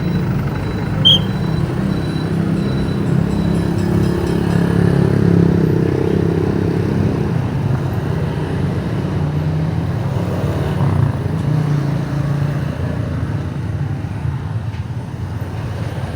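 Motorcycle engine running while riding, its note building for a few seconds around the middle and then easing off. A short high chirp about a second in.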